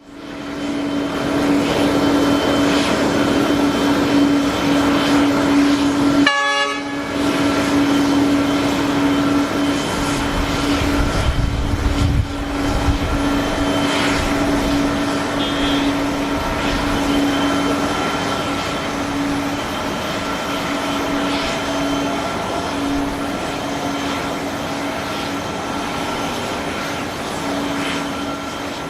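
A steady mechanical drone with a constant tone runs throughout. About six seconds in, the Sinfonia TD-3000T pushback tractor gives one short multi-tone air-horn blast, the warning it sounds before moving off. A low rumble follows at about ten to thirteen seconds.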